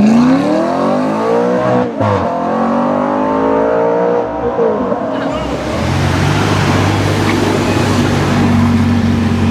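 Sports car engine accelerating hard, its revs climbing in two sweeps with a brief break for a gear change about two seconds in. From about halfway on, a steadier, lower engine drone follows.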